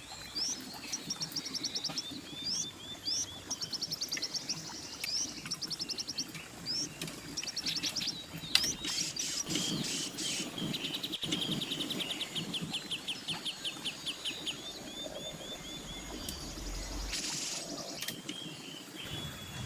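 Birds chirping and trilling in quick repeated phrases, with a sharp knock about eight and a half seconds in and a few lighter clicks.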